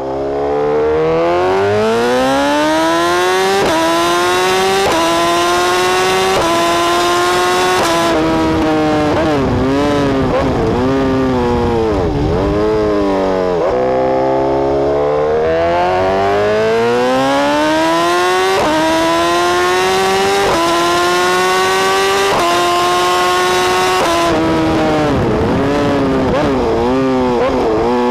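BMW S1000R's inline-four through a full decat BlackWidow exhaust with a Pro-Race end can, heard onboard, pulling hard through the gears with several quick up-shifts. The revs then fall and waver as it slows with down-shifts, then it makes a second hard pull up through the gears and slows again near the end.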